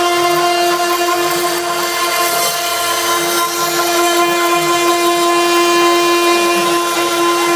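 Alim-Emax CNC router running a 3D carving job: the spindle gives a steady whine, with a hiss of cutting over it.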